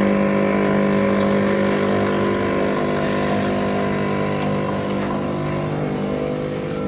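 Miele CM5 benchtop coffee machine running with a steady mechanical hum during its first start-up.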